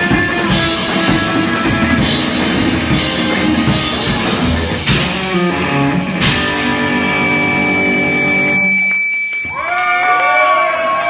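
Live rock band with drum kit and electric guitar playing the end of a song: a final hit about six seconds in, then the chord rings out with a steady high feedback tone, and near the end voices shout out.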